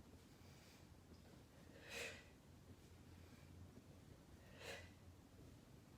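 Two short, sharp exhalations about two and a half seconds apart over near silence: a person breathing out with the effort of each crunch.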